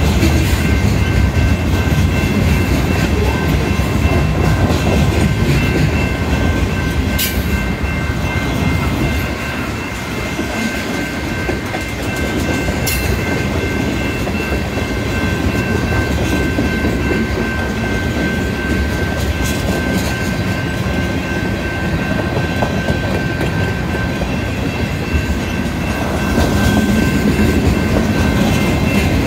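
Freight cars of a long mixed freight train rolling past, a steady heavy rumble of steel wheels on the rails with steady high tones over it and a couple of sharp clicks. It eases a little about ten seconds in and swells again near the end.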